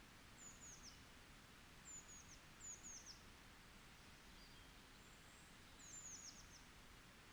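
Faint songbird calls: four short bursts of three to five very high, quickly falling notes, over a steady hiss of forest ambience.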